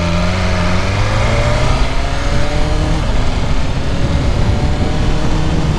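A 2021 BMW S1000RR's inline-four engine accelerating hard from a standstill, its pitch climbing and stepping down as it shifts up twice, about two and three seconds in. It runs through an SC Projects exhaust that still has the stock catalytic mid-pipe fitted, which keeps it restricted and quiet.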